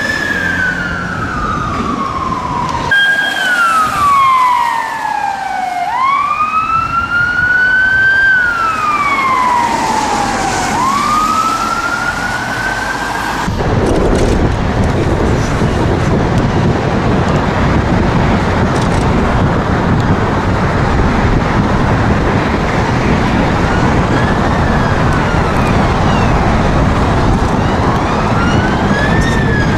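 UK emergency vehicle siren in a slow wail, its pitch rising and falling over about five seconds a cycle. About halfway through, loud engine and road noise takes over and the siren becomes faint.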